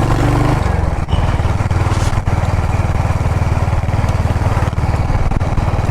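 Motorcycle engine running steadily while riding, a low, rapidly pulsing engine note with wind noise over it; the engine note shifts slightly about half a second in.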